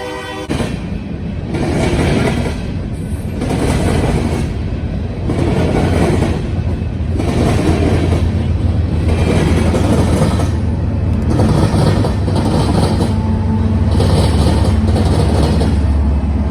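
Freight train passing close by: a diesel locomotive horn cuts off about half a second in. Then comes a steady low rumble with a regular swish and clatter of rail cars going by about every second and a half, the rumble growing louder toward the end.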